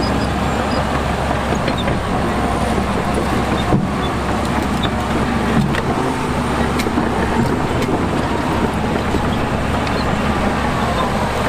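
Diesel engines of heavy earthmoving machinery running steadily under load, with a few short sharp clanks.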